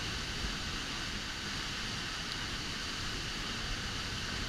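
Steady rush of falling water from Havasu Falls, an even hiss without breaks.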